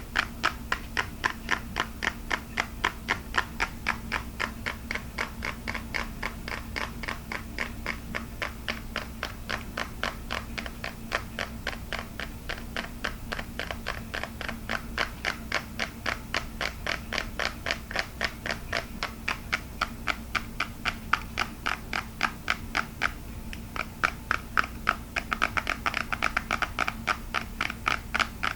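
Fast, even tapping on hard plastic, many small sharp taps a second with no pause.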